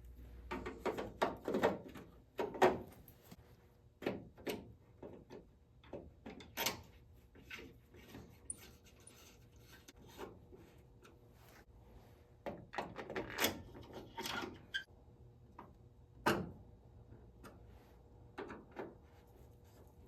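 Irregular clicks, taps and knocks of hands fitting a plastic front turn signal lens and its bulb housing on a Ford truck, with a few louder knocks spread through.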